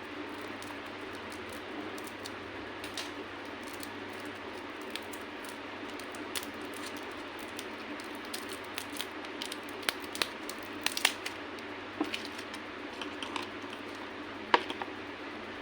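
Candy being crushed: scattered sharp cracks and crunches over a steady background hiss. The cracks come thicker in the second half, with the loudest a little past the middle and another near the end.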